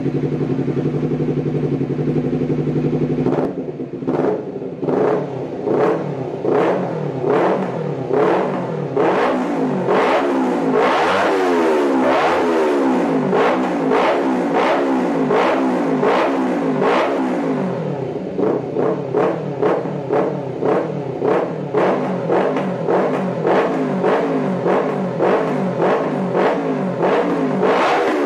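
Honda CBR250RR engine through a stainless steel aftermarket exhaust, idling steadily for about three seconds, then revved in quick repeated throttle blips about once a second, with a busier run of revving in the middle.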